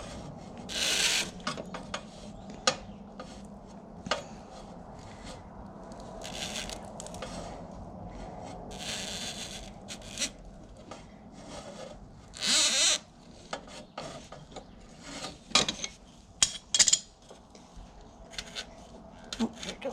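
Scraping, rubbing and scattered metal clicks as a tool grips and slips on a stuck, crushed motorcycle oil filter canister, with a few louder rasping scrapes.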